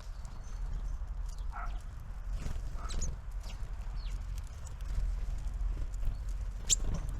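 Small birds at a feeder: scattered taps and clicks, typical of beaks pecking at seed and feet landing on the feeder, with a few short high chirps, the loudest near the end.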